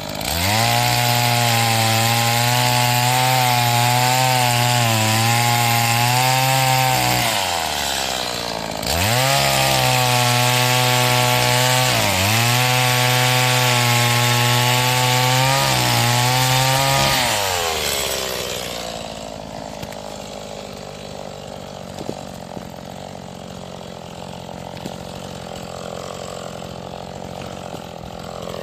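Stihl MS 180 two-stroke chainsaw being run in, held at high revs while cutting firewood, its pitch sagging and recovering under load. It drops off briefly after about seven seconds, revs up again for about eight more seconds, then falls back to a steady idle for the rest.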